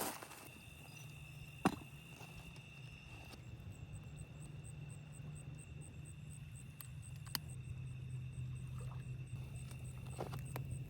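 Crickets chirping in a faint, even rhythm of about three chirps a second over a low steady hum, with a couple of sharp clicks in the first two seconds.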